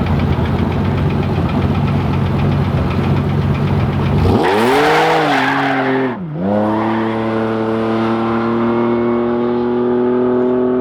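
Drag-racing car's engine idling with a steady low rumble, then launching hard about four seconds in: the revs shoot up with a burst of noise. The pitch drops sharply for a gear shift about two seconds later, and the car then pulls away with the engine pitch climbing steadily.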